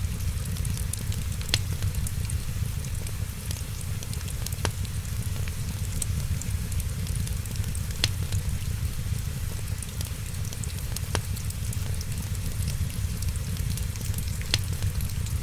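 Wood fire crackling, with many small ticks and a few louder sharp pops spread through, over a steady low rumble and hiss.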